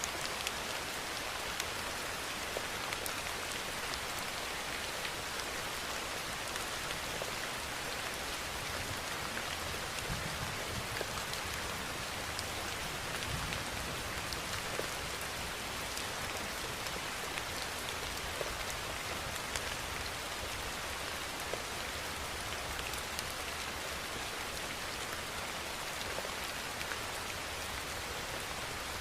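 Steady rainfall: an even, dense hiss with many individual drops ticking on a surface.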